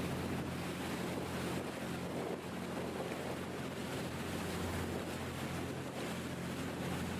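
Boat engine running steadily under way, a constant low hum, with water rushing past the hull and wind on the microphone.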